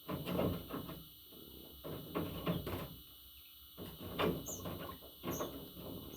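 Pet budgie moving about, with irregular scratching and rustling. Two faint, very short high chirps come in the second half.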